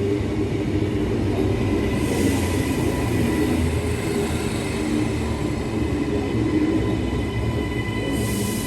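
Queensland Rail electric passenger train running at speed: a steady rumble of wheels on track with a steady whine. A brief hiss rises about two seconds in and again near the end.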